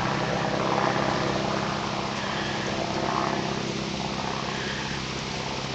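Vehicle engine running steadily: a low, even hum with a steady hiss over it.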